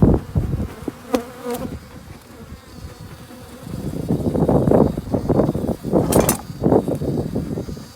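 Honeybees buzzing close to the microphone around an opened hive, swelling louder about halfway through, with a few sharp clicks and knocks.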